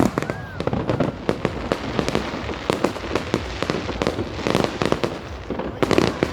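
Fireworks going off: a rapid, irregular string of bangs and crackles, with louder clusters around the middle and near the end.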